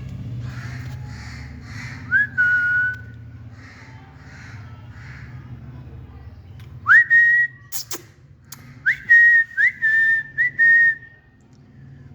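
Loud, clear whistles, each sweeping sharply up and then held level for a moment: one about two seconds in, another around seven seconds, and a quick run of four near the end. A sharp click comes just before the run.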